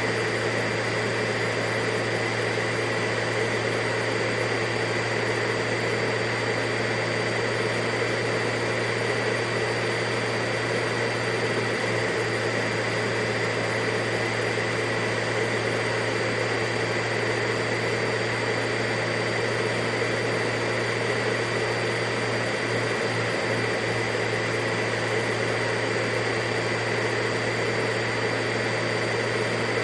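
Vacuum cleaner motor running steadily, a continuous whooshing noise with a steady hum and a high whine that never changes.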